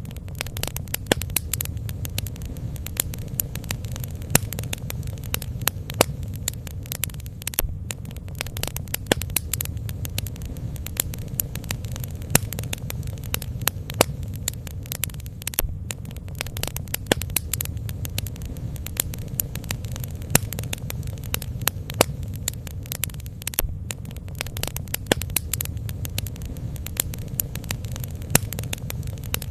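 Bonfire burning, wood crackling with frequent irregular sharp pops over a steady low rumble.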